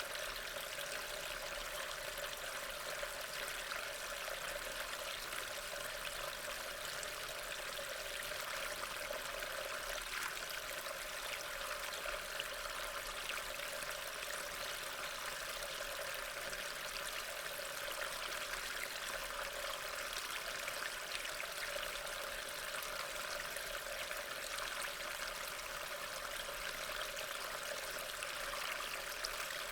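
Steady rain, an even hiss with a fine patter of drops.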